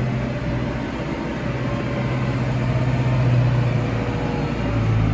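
Tractor engine running steadily as it drives across the paddock, a constant low hum whose pitch shifts slightly near the end.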